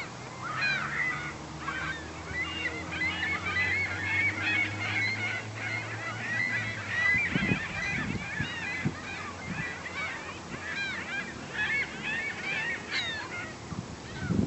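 A large flock of herring gulls calling all at once, a dense chorus of overlapping short, bent cries. A low steady drone runs underneath through the first half and stops about halfway through.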